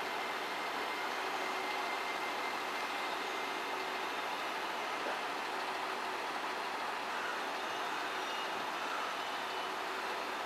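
Steady wash of traffic and railway noise, with a Shinkansen train moving slowly past.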